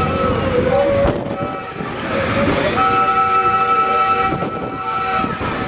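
Railcar horn sounding a chord of several steady tones. One blast cuts off just after the start, and a longer blast of about two and a half seconds begins about three seconds in, over the steady rumble of the car running on the rails.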